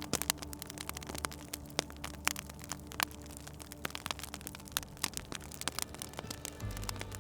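Wood fire crackling in a fireplace: a soft hiss broken by frequent, irregular sharp pops and snaps.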